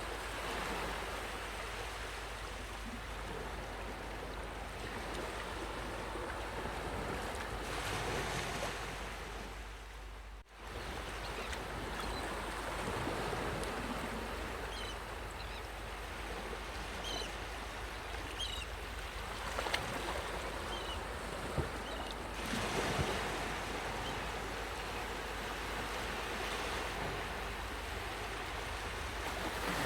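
Sea waves washing onto a beach, a continuous surging hiss that swells and eases as waves break, with a brief sudden drop in level about ten seconds in.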